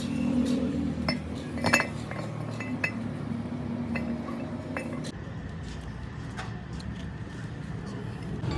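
Metal parts or tools clinking and tapping against each other, with a few sharp ringing clinks, the loudest about two seconds in, over a steady low workshop hum.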